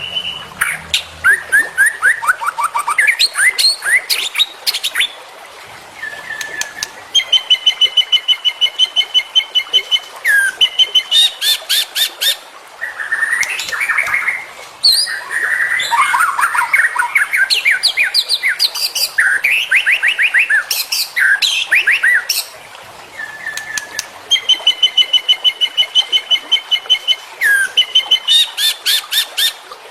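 White-rumped shama (murai batu) singing a varied mimicry-filled song: sweeping whistled phrases alternating with fast rattling series of short even notes. The phrase sequence repeats about halfway through.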